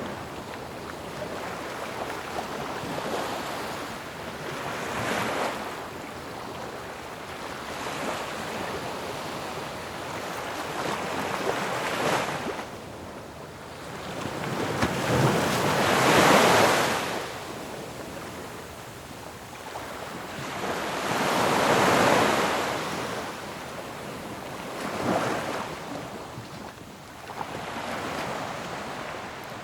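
Ocean waves breaking on a shore, a steady wash of surf that swells with each wave; the largest breaks come about halfway through and again some six seconds later.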